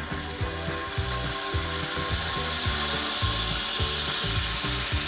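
Strips of soy-marinated banana peel sizzling as they go into hot oil in a frying pan; the sizzle swells about half a second in and then holds steady, the oil hot enough to fry. Background music with a steady low beat plays underneath.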